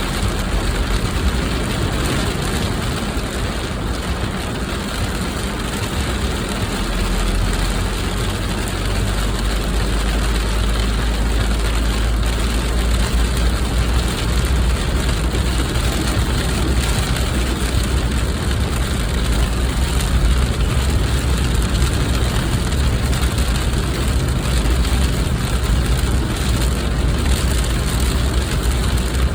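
Steady noise inside a moving car: engine and tyre noise under a dense, even hiss. A deep low rumble grows stronger about seven seconds in and stays.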